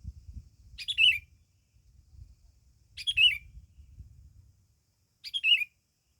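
A small songbird giving the same short, high chirping phrase three times, about two seconds apart, over a faint low rumble.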